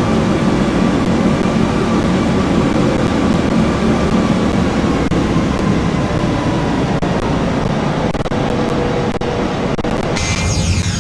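Airbus A380 jet engines running: a loud, steady rumble with faint whining tones. About ten seconds in, a brighter, higher whine sets in suddenly.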